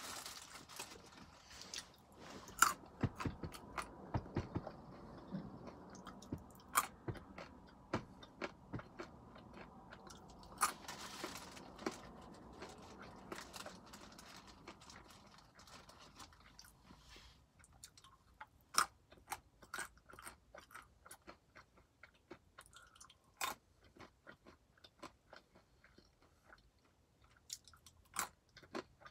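Almonds being crunched and chewed, a string of sharp crunches. The chewing is dense for the first half, then thins to scattered crunches, with a few loud ones again near the end as another almond goes in.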